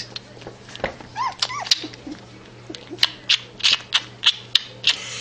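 A dog whimpering with a few short rising-and-falling whines, then giving a run of short, sharp, high yelps about three a second.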